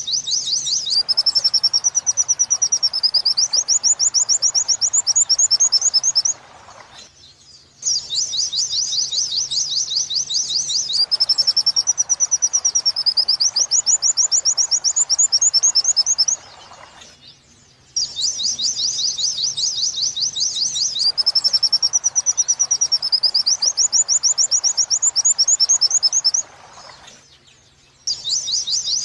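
White-eye (pleci) song of the 'wit-wit sambung kunti' type: a fast, high 'wit-wit' trill running into a warbling phrase and then another fast trill, about six seconds long. The phrase repeats three times with short pauses and the same shape each time, as a looped training (masteran) recording.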